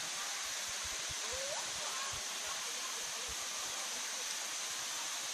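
Steady rush of a large waterfall: an even, unbroken wash of falling water.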